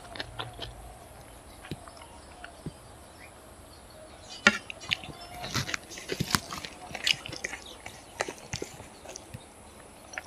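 Mouth sounds of someone eating rice by hand: chewing with wet clicks and lip smacks. They are sparse at first and come thicker from about halfway in.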